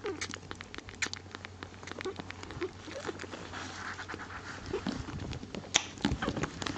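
Kittens scrabbling about: a rapid, irregular patter of light clicks, with a few faint squeaks.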